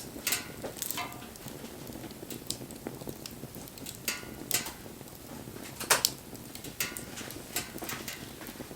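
Wood fire crackling, with irregular sharp pops over a faint steady rustle of burning; the loudest is a quick double pop about six seconds in.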